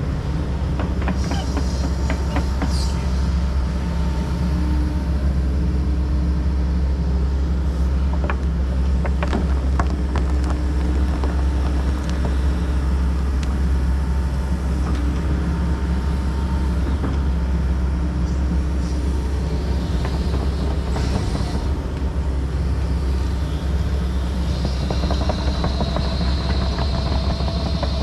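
Tracked excavator running steadily with a deep diesel drone, with scattered clanks and knocks from the machine working.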